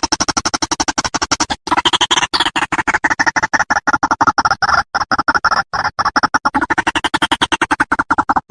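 White-breasted waterhen (ruak-ruak) lure call: a fast, unbroken series of short repeated notes, about nine a second, with a few brief breaks.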